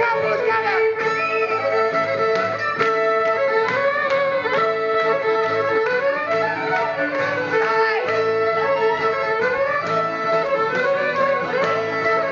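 Barn-dance music with a fiddle playing the tune over guitar accompaniment.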